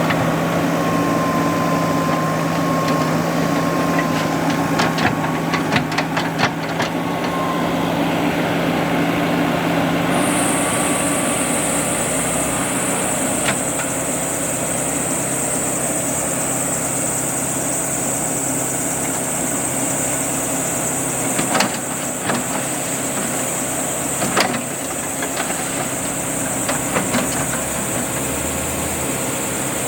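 JCB backhoe loader's diesel engine running steadily at idle, with scattered knocks and clanks. A high steady hiss comes in suddenly about a third of the way through and carries on.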